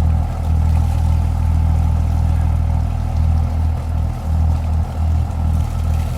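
Cummins diesel engine running steadily at low revs through a stainless steel exhaust, with no revving. Water that was put into the muffler to scrub out carbon is being blown out, and the run goes on until the exhaust stops coming out black.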